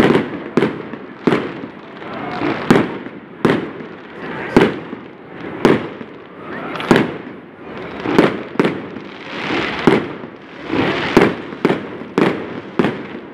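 Fireworks display: aerial shells bursting overhead in a rapid string of sharp bangs, about one to two a second, each trailing off in echo, with a noisy rush between them.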